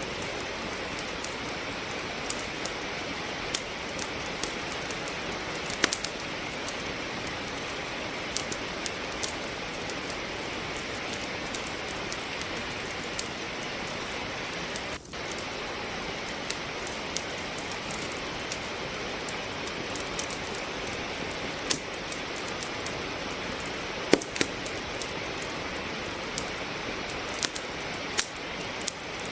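Steady rain hiss with a wood fire crackling in a fireplace: sharp pops come irregularly over the rain's even noise. The sound dips for an instant about halfway through.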